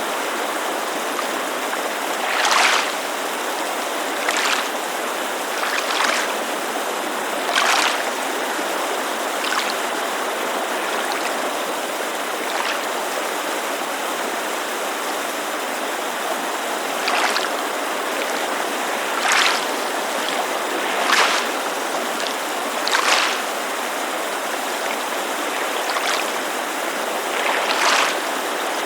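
Steady rushing of a mountain creek, with small waves lapping against a lake shore in short splashes every couple of seconds, irregularly spaced.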